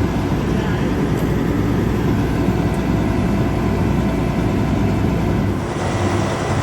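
Heavy engine of a combine harvester running steadily with a deep rumble. Near the end the sound shifts, with more high hiss.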